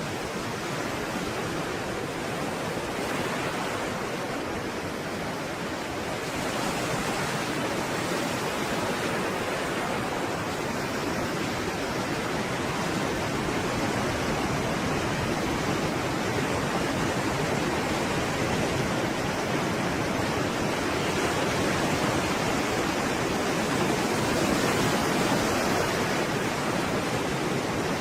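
Stormy sea waves: a continuous wash of surf that swells slowly, growing louder about six seconds in and again near the end.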